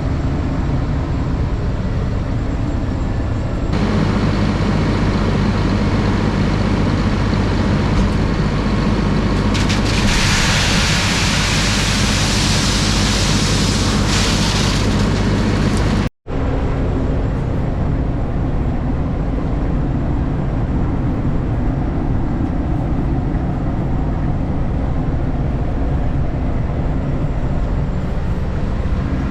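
Steady engine and driving noise of a RoGator self-propelled sprayer on the move, with a loud hiss for about five seconds in the middle. The sound cuts out for an instant just past halfway, then the same steady running carries on.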